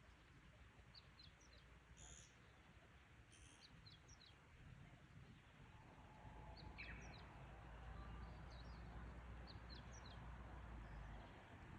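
Wild songbirds calling faintly: many short, high chirps scattered throughout, with a few louder calls about two and three and a half seconds in and a falling whistle about seven seconds in. A low rumble underneath grows louder about six seconds in.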